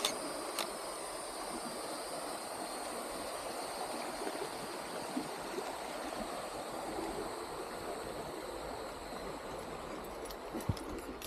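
Hillsborough River water rushing steadily over the rapids, an even, continuous rush.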